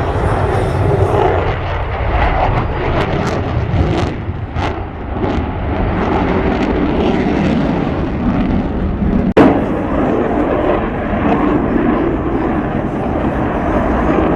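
Jet roar from Blue Angels F/A-18 Super Hornets flying their display, a steady, heavy rumble, with one sharp crack about nine seconds in.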